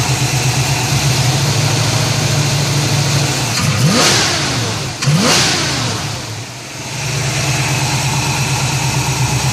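Ford 302/331 small-block V8 with a two-barrel carburettor idling steadily, then revved twice in quick succession by hand at the throttle about four and five seconds in. It falls back, dips briefly below idle and settles into a steady idle again, freshly tuned with the timing at 18 degrees before top dead centre.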